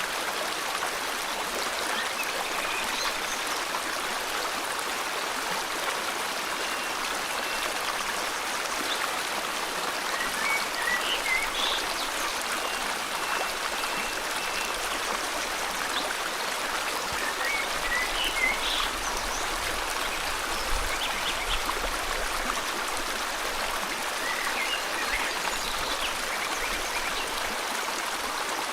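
River water flowing steadily, with a bird chirping briefly three times over it, about a third of the way in, around the middle and near the end.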